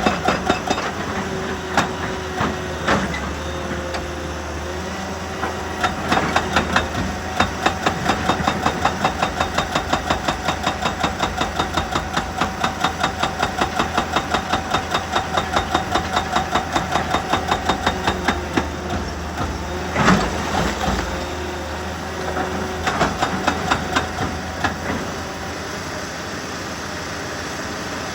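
Heavy machinery running steadily, with rapid, regular hammering of about five blows a second through the middle stretch. A single heavy knock comes about twenty seconds in, followed by a few scattered hits.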